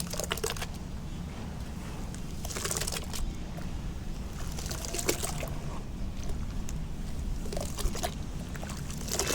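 Lumps of soft sand cement dipped in water and crumbling, a short burst of crackling and trickling about every two and a half seconds.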